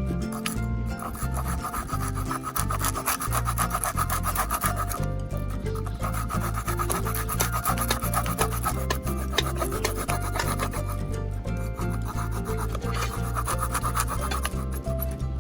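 Background music with a repeated rasping, scraping sound over it in several stretches.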